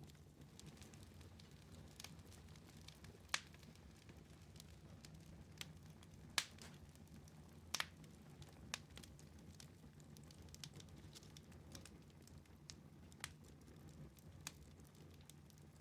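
Wood fire in a fireplace crackling, with sharp pops every second or so; the loudest come about three, six and eight seconds in. A faint steady low hum runs underneath.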